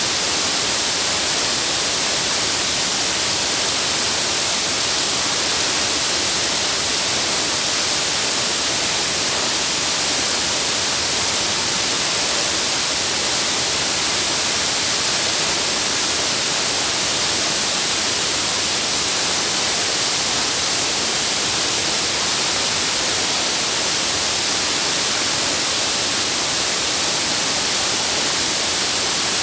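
Waterfall: a steady, unbroken hiss of falling water, strongest in the upper range.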